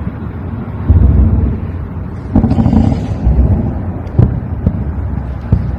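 Distant explosions: low rumbling booms that swell about a second in and again past the two-second mark, followed by a few short sharp cracks in the second half.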